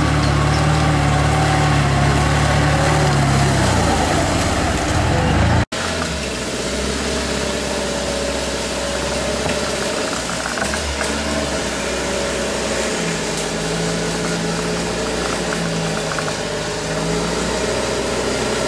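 Off-road 4x4 engine running loud and steady, its note falling away about four seconds in. After a cut, an engine runs more quietly and steadily, with its pitch lifting for a few seconds later on.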